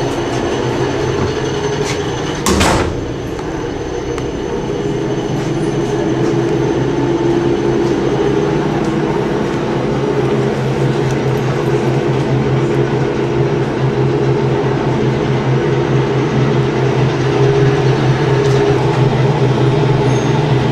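NSW 620/720 class diesel railcar running along the line, heard from on board: a steady engine drone with wheel and rail noise that builds slightly toward the end. A single sharp knock about two and a half seconds in.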